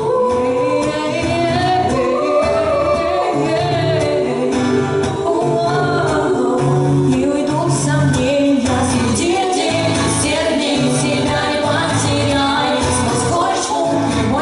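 A song sung over a steady low bass pulse, with guitar accompaniment.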